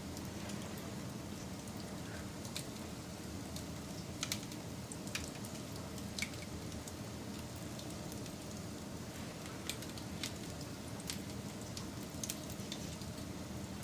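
Wood fire burning with a steady low rush, broken by irregular sharp pops and crackles, about a dozen across the stretch.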